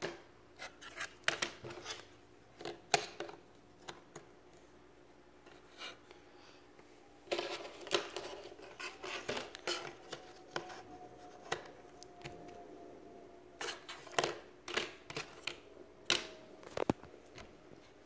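Cardboard jigsaw puzzle pieces being handled and pressed into place: scattered light clicks and taps with rustling, busiest around the middle.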